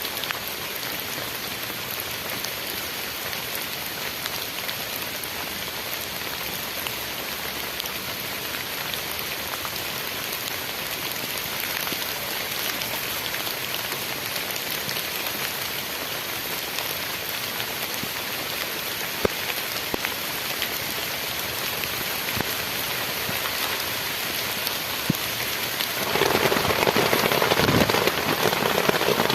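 Heavy rain falling steadily, with a few sharper drop hits, growing heavier near the end.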